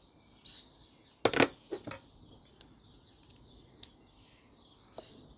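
Hand tools being handled during engine reassembly: a sharp double knock a little over a second in, then a few fainter clicks and ticks.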